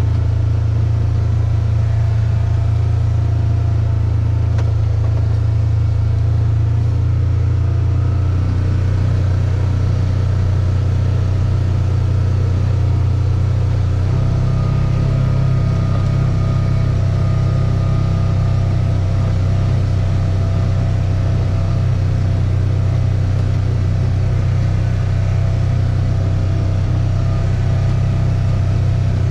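An engine running steadily with a low hum, its pitch shifting slightly twice.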